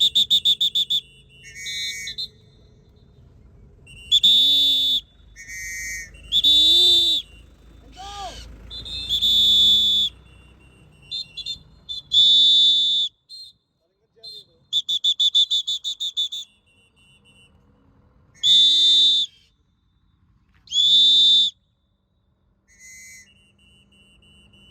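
A shrill whistle blown in repeated blasts of about a second each, some broken into rapid trills.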